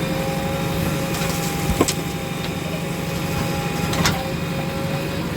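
Heavy diesel machinery engine running steadily, with two sharp knocks a couple of seconds apart.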